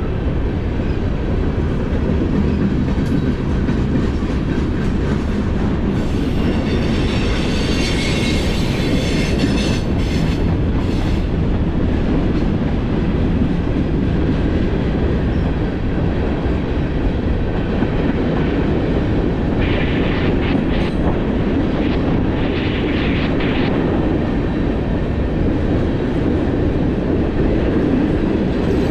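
Freight train cars rolling past: a steady heavy rumble of wheels on rail, with two stretches of high-pitched wheel squeal, about a quarter of the way in and again about two-thirds through.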